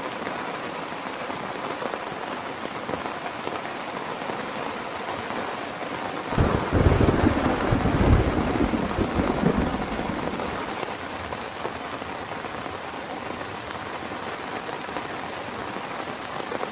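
Heavy rain falling steadily, with a sudden peal of thunder about six seconds in that rumbles loudly and fades away over the next few seconds; another rumble of thunder begins at the very end.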